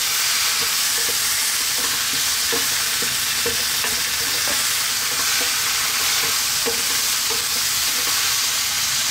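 Onions, tomatoes, garlic and ginger sizzling steadily in oil in a wok, while a wooden spatula stirs them with repeated short scrapes against the pan.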